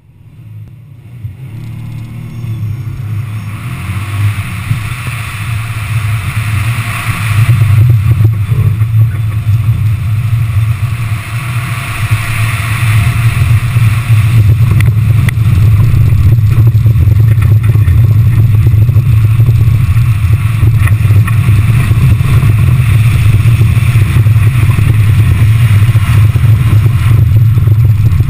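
Subaru Impreza GT's turbocharged flat-four engine pulling hard through a slalom run, heard from outside the car. The sound builds over the first several seconds and then stays loud and steady.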